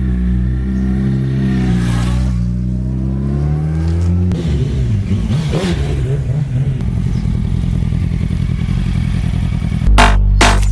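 Yamaha YZF-R1 inline-four with a Yoshimura exhaust: the revs fall away over the first few seconds, it is blipped once briefly, and it then runs steadily. Electronic music with a heavy beat starts near the end.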